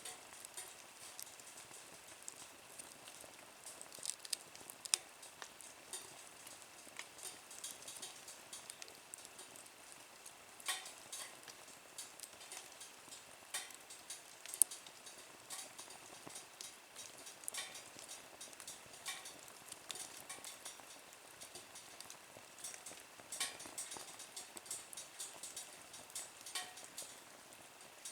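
Small wood fire burning in a nature stove, crackling with scattered sharp pops over a faint sizzling hiss.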